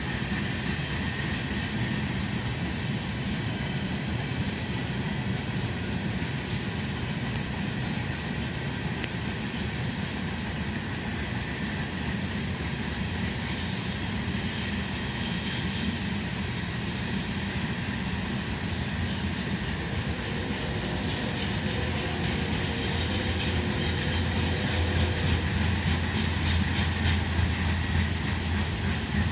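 Freight train cars rolling past on the rails: a steady rumble of wheels on track with some clicking. It grows louder over the last several seconds, with a deeper rumble underneath.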